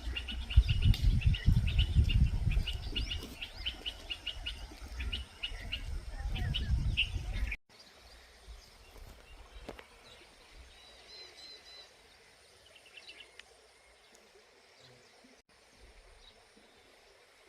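Small birds chirping in rapid, repeated calls over a loud low rumble. About seven and a half seconds in the sound cuts off abruptly to a much quieter stretch with only a few faint bird calls and a short trill.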